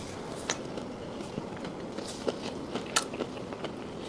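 Close-up chewing of chicken liver: scattered wet mouth clicks and smacks, roughly one a second, the sharpest about three seconds in.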